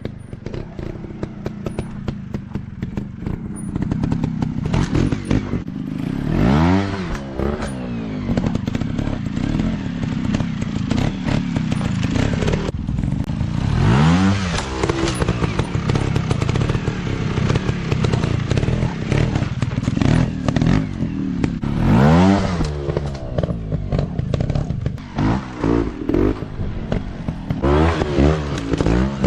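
Small off-road motorcycle engine running under riding load, revving up and dropping back several times, with a steady clatter of knocks and scrapes throughout.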